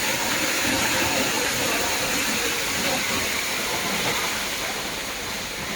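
Rain and running water making a steady hiss.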